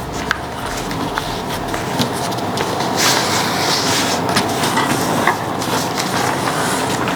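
Origami paper being folded and creased by hand: rustling and crinkling with small crackles, and a longer rustle about three seconds in, over steady background noise.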